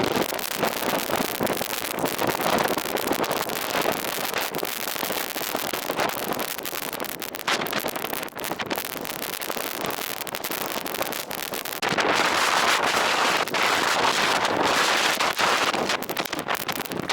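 Blizzard wind buffeting the microphone in strong gusts, with a dense patter of clicks through the roar. It eases a little partway through and gusts up louder again about two-thirds of the way in.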